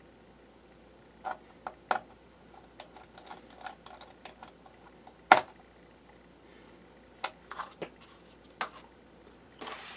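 Screwdriver tightening the screws on a laptop's plastic bottom cover: irregular small clicks and taps, with one louder knock about five seconds in.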